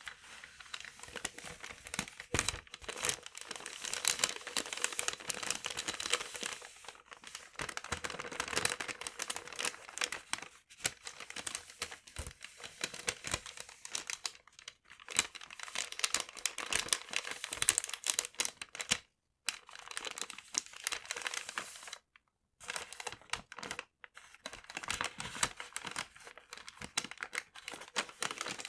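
Paper being crumpled and crinkled by hand in close-up, a dense crackling that comes in long stretches broken by a few short pauses.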